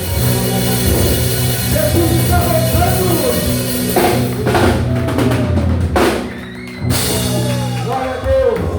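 Live rock band playing: a drum kit with snare and bass drum and several cymbal crashes over held bass notes and melodic lines; the sound dips briefly just before a final crash.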